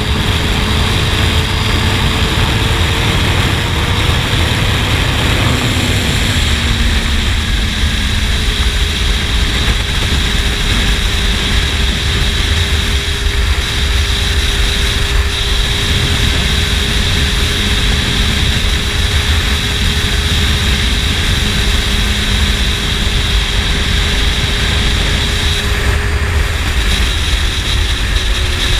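Honda CBR600 inline-four sport bike with a slip-on exhaust cruising at steady revs, its engine drone mixed with heavy wind rush on a helmet-mounted microphone. The engine note rises a little over the first few seconds, drops off about six seconds in, then holds steady and eases off again near the end.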